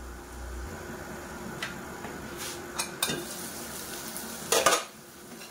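Chicken offal and fresh beans frying in a kadhai, sizzling steadily, with a spatula stirring and scraping against the pan a few times, the loudest strokes shortly before the end.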